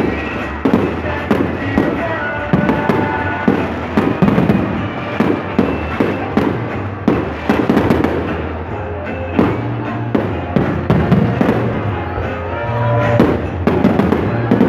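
Aerial fireworks bursting in rapid succession, a dense run of bangs and crackles, with music playing along.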